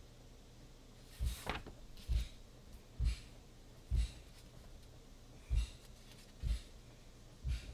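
Dull thuds of demolition banging from construction work in the background: seven blows about a second apart, with a short pause midway.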